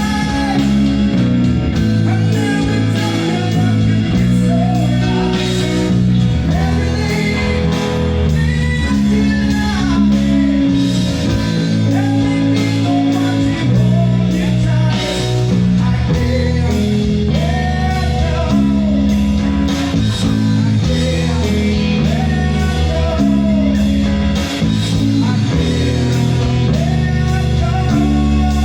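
Rock song with a male or female vocal over guitars, bass and drums, playing at a steady loud level.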